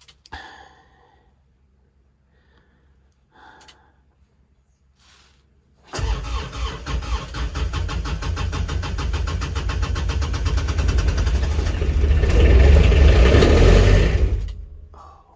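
Kubota RTV900's three-cylinder diesel being cranked by its starter in deep cold for about nine seconds without catching, getting louder near the end before cutting off. The owner takes the hard start for summer diesel fuel gelled at -8°F.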